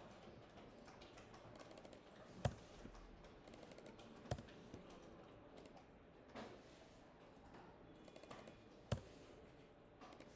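Faint, sparse typing on a computer keyboard: separate key clicks, four of them louder and spaced a couple of seconds apart.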